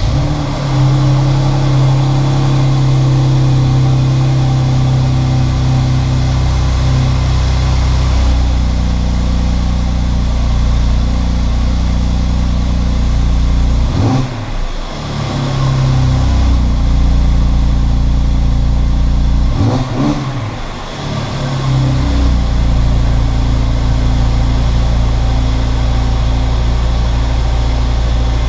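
Mercedes-Benz C350's 3.5-litre V6 running at a steady idle through its exhaust just after a cold start. It is revved twice, briefly, about 14 and 20 seconds in, and drops back to idle each time.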